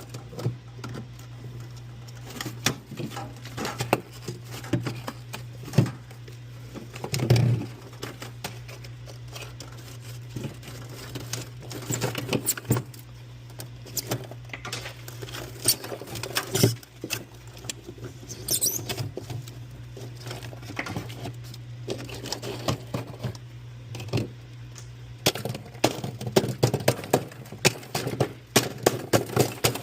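Irregular light taps, clicks and scrapes of hands and tools working inside a refrigerator's freezer compartment, with a steady low hum underneath.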